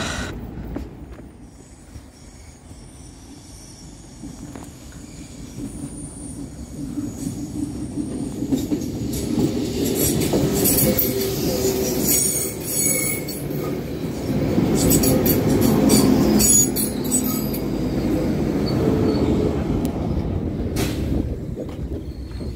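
Transport for Wales diesel multiple-unit train running past at close range: its wheels and engine rumble, building up over several seconds and loudest about two-thirds of the way through. At its loudest a high wheel squeal and clicking of the wheels over the rail joints come through, then the sound eases off.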